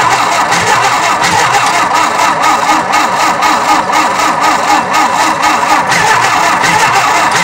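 Tractor engine being cranked over by its starter on a nearly dead battery, turning slowly in an even rhythm of a little over two beats a second without catching. The owner takes the failure to start for fouled spark plugs and a weak battery.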